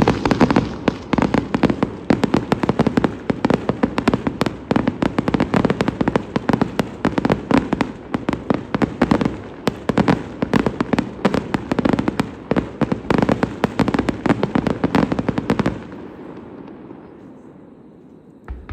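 Fireworks display: a dense barrage of shells bursting in rapid succession, several bangs a second, that stops abruptly about sixteen seconds in. Then a fading rumble and one single bang near the end.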